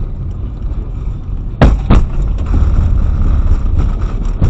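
Car driving along the road, its low road and engine rumble steady, with two sharp knocks close together about a second and a half in and another near the end.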